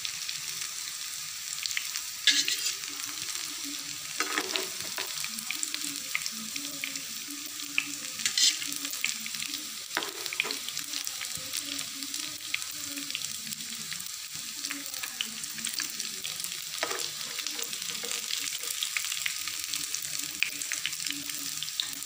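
Avil (flattened-rice) vadas sizzling steadily in hot coconut oil in a nonstick pan. A few sharp clicks come from the metal slotted spoon against the pan as the fried vadas are lifted out.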